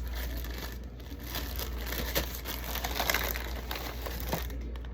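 Plastic bag crinkling and rustling continuously as it is handled while food is packed into it, over a steady low hum.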